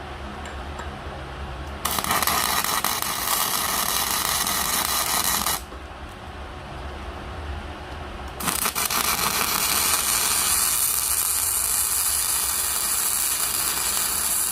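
Arc welding steel plate to reinforce a homemade hydraulic splitting axe: the arc crackles and hisses in two runs, the first about four seconds long and the second about seven, each starting and stopping suddenly, over a steady low hum.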